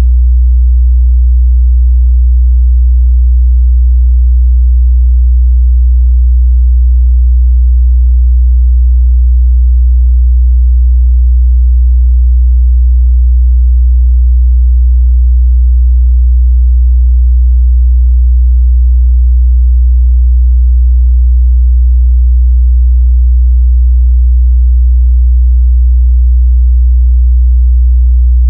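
A steady 61 Hz sine-wave test tone, one continuous low bass hum at constant pitch and level.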